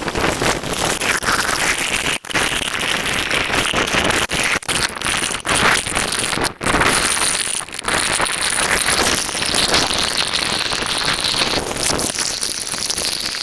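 Heavy rain and wind in a thunderstorm: a loud, dense crackling hiss, broken by a few brief dropouts.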